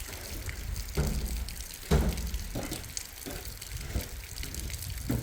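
Running and splashing water in heavy rain, with several sudden louder splashes or knocks about a second apart.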